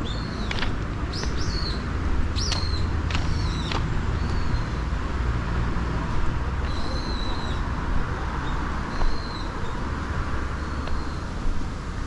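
Birds calling outdoors, a series of short arching chirps repeated every second or so, thinning out toward the end, over a steady low rumble.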